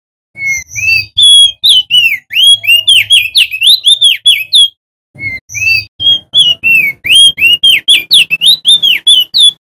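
Male opior jambul (crested darkeye) singing loudly: two long phrases of rapid, clear whistled notes, each note slurring up or down, with a brief pause about halfway through.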